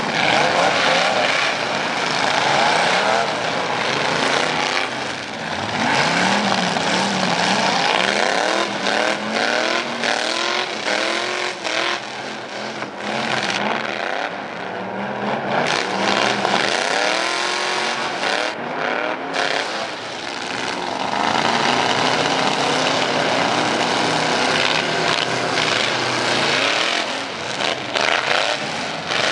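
Pickup truck engine with loud exhaust pipes, revved hard and repeatedly, its pitch rising and falling over and over.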